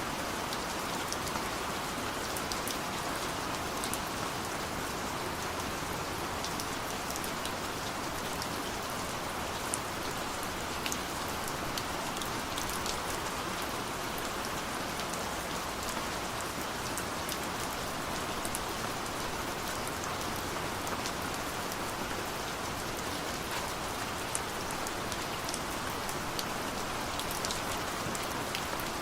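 Steady rain falling, with a constant hiss and many individual drops ticking on surfaces throughout.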